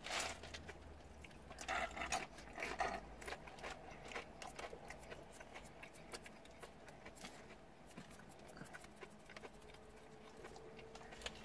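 Faint, close-up chewing and lip smacking, with crunches of a potato chip being bitten in the first few seconds, over a low steady hum.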